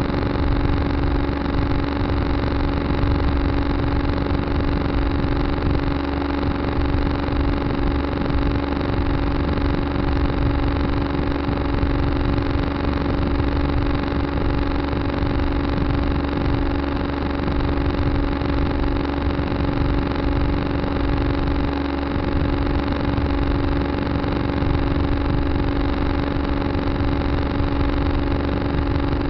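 Tractor engine running steadily at an even speed, with a constant strong hum.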